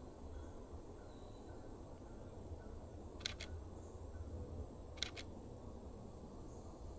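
Canon EOS RP shutter firing twice, about two seconds apart, each release a quick double click.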